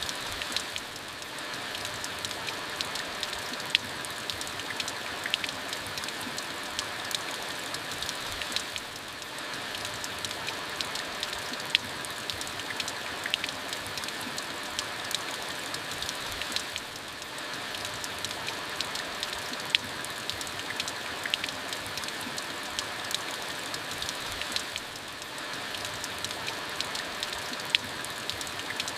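Steady rain falling, with individual drops ticking sharply on a hard surface among the even hiss. The sound dips briefly about every eight seconds.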